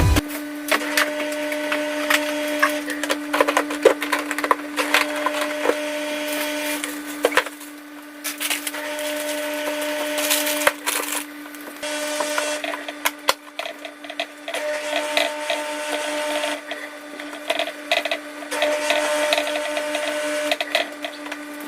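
Irregular clattering, knocking and scraping as a refrigerator is cleaned out by hand, with items and shelves handled and wiped, over a steady low hum.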